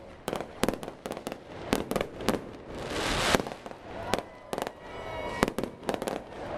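Aerial fireworks shells bursting in quick, irregular succession: a string of sharp bangs, with a swell of hissing crackle building to a peak about three seconds in.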